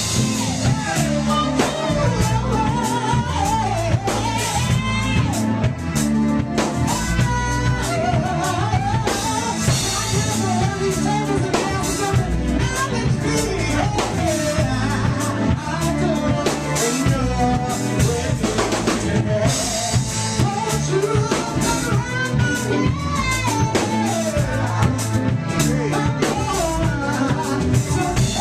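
Live funk and soul band playing a song: a full drum kit with kick, snare and rimshots keeping a steady beat under bass and a wavering melody line with some singing.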